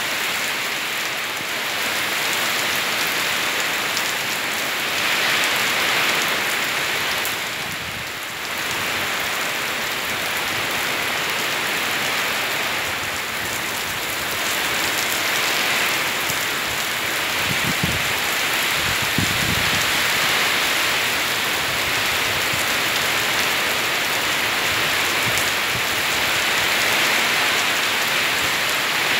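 Heavy tropical rain falling steadily on trees and foliage, swelling and easing slightly in waves. A brief low rumble comes about two-thirds of the way through.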